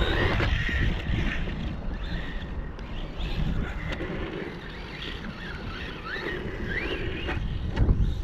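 Small electric motor of a 1/18-scale RC truck whining, rising and falling in pitch as the throttle is worked, over a steady low rumble; it is loudest at the start and swells again near the end.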